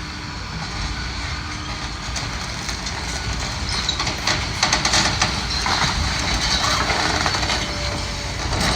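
The diesel engine of heavy demolition machinery runs steadily. From about four to seven and a half seconds in, a spell of clattering and crunching debris joins it.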